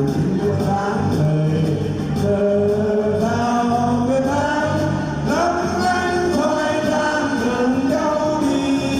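Singing over backing music with a steady beat.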